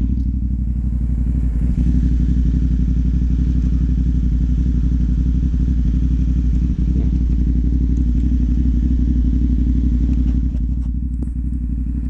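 CFMoto 450 parallel-twin motorcycle engine running at steady revs through a Yoshimura AT2-style slip-on exhaust, a constant low drone. It eases off slightly in level near the end.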